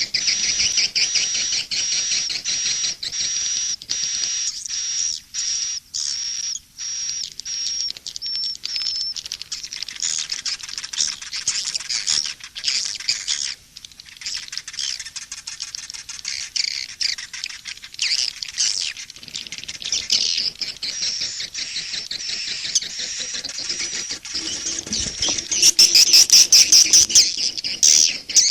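Recorded swiftlet calls in a calling-sound (SP) lure mix, the kind played to draw swiftlets into a nesting house. Dense high twittering and chirping; for the first several seconds a high pulsing note repeats about twice a second, then the twitter thickens and grows louder near the end.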